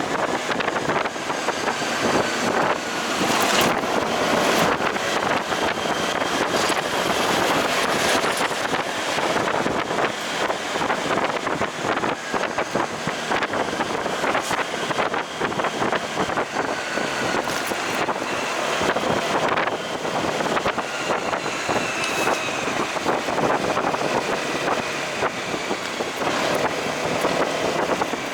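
Motorcycle on the move, its engine and road noise under heavy wind buffeting the microphone.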